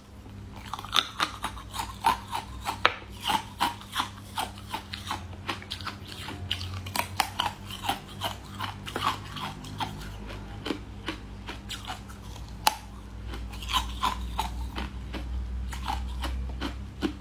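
Close-miked biting and chewing of a firm translucent jelly sweet: many sharp crunching clicks at an irregular pace, with short pauses between mouthfuls.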